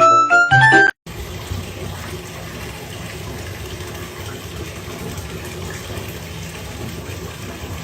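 A melody of short pitched notes cuts off about a second in, followed by a steady, even rushing noise.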